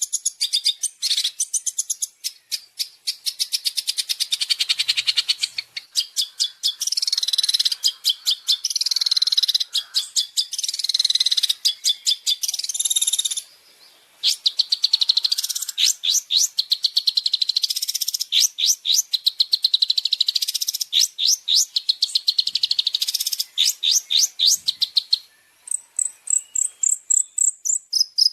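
Long-tailed shrike (cendet) song with mimicked fill-in phrases: long runs of rapid, harsh high chirps and rattling trills, broken by a short pause about halfway. Near the end it changes to quick, separate piercing notes.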